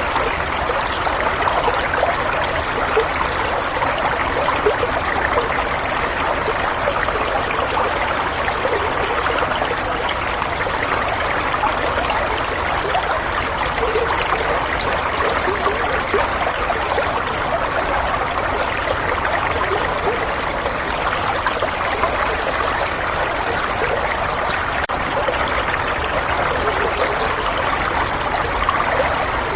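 Running water flowing and trickling steadily, a continuous even rush with small bubbling splashes.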